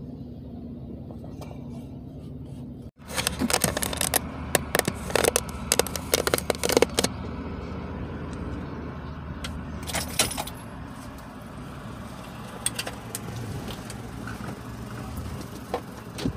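Car engine idling, heard from inside the cabin as a steady low hum. After an abrupt cut about three seconds in, a run of sharp clicks and rattles close to the microphone lasts about four seconds, with a few stray clicks later.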